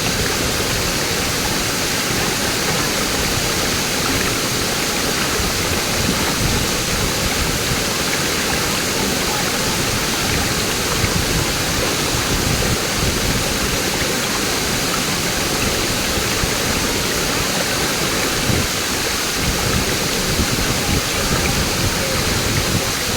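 Waterfall cascading down a jungle stream, a loud steady rush of water.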